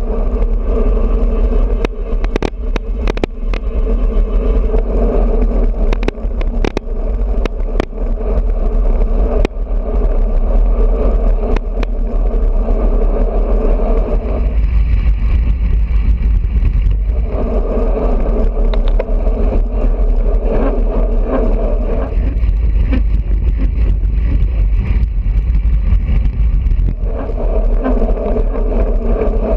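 Wind buffeting the microphone of a GoPro on a moving road bicycle, with a steady hum that drops out twice and comes back. A cluster of sharp clicks and rattles comes in the first several seconds.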